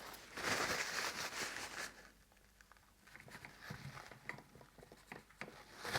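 Rustling for about two seconds, then scattered light clicks and taps as small engine parts are handled during the Moki 215cc radial engine's strip-down.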